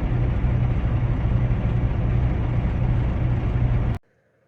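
Semi-truck diesel engine idling with a steady low rumble, cutting off suddenly about four seconds in.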